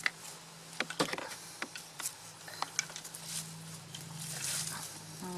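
Soil being dug out of a garden pot: scattered scrapes and light knocks, with a low steady hum underneath.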